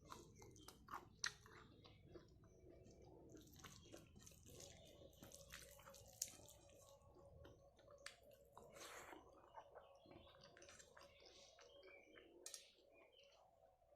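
A person chewing food, quiet and close, with many short irregular clicks of mouth and food. A faint steady hum runs underneath from a few seconds in.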